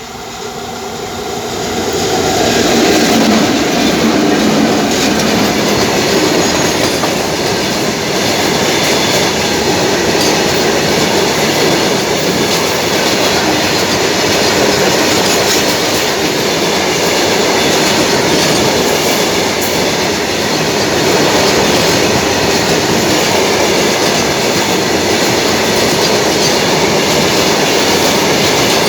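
A moving train: the steady loud rumble and rattle of its wheels on the rails, swelling up over the first two or three seconds and then holding level.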